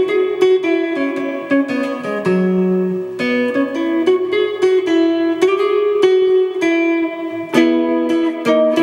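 Jaguar-style kit electric guitar playing a slow melody of single picked notes, each ringing on into the next.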